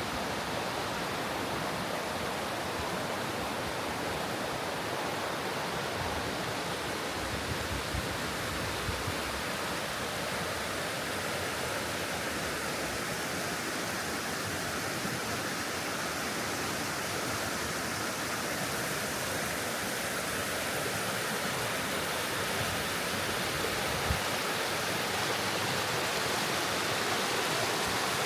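Steady rush of flowing water, an even noise without pitch or rhythm, with one soft thump about three-quarters of the way through.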